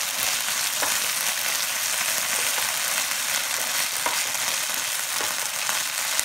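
Bacon and sausage stuffing mixture with spinach sizzling steadily in a frying pan on a portable butane burner while a wooden spatula stirs it, with a few light scrapes against the pan.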